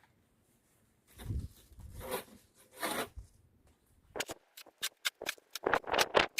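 Snow being cleared with a homemade pitchfork snow shovel: three scraping pushes about a second apart, then, from about four seconds in, a quick run of crunching in the snow.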